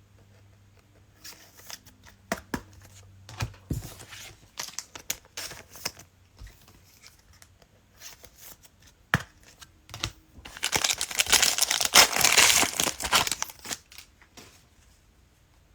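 Cellophane wrapper of a Mosaic football cello pack crackling and being torn open: scattered crinkles and taps, then a dense stretch of tearing and crinkling lasting about three seconds past the middle.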